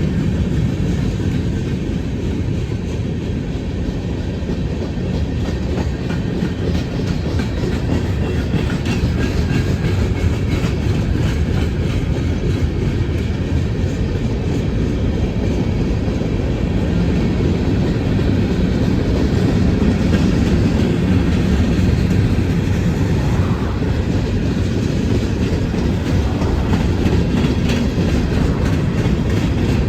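A train rolling past at close range, its wheels clicking steadily over the rail joints.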